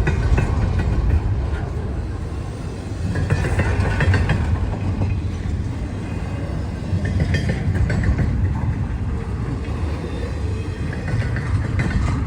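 Freight train rolling past: a steady low rumble of wheels on rail, with clicks and clacks from the cars over rail joints.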